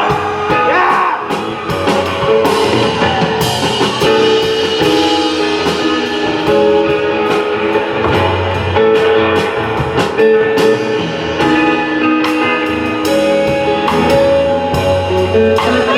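Live band playing an instrumental passage without vocals: guitar with a drum kit keeping a steady beat.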